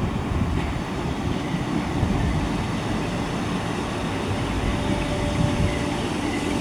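Merseyrail PEP-family electric multiple unit (Class 507/508 type) running through the station: a steady low rumble with rail noise, and a faint steady tone that comes in near the end.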